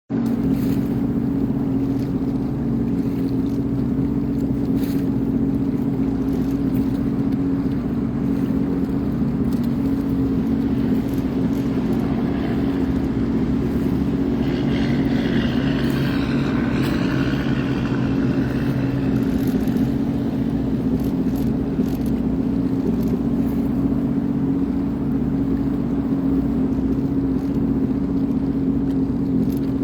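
Sea-Doo Fish Pro personal watercraft engine running at a steady speed, with a fainter wavering higher sound over it for several seconds midway.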